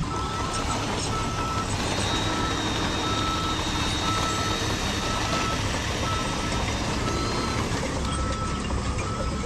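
Reversing alarm beeping about once a second from a radio-controlled construction model, over a steady engine-like rumble.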